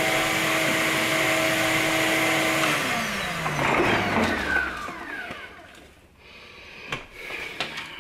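Vacuum cleaner running steadily, then switched off about three seconds in, its motor winding down with a falling whine over a couple of seconds, followed by a few light clicks and handling knocks.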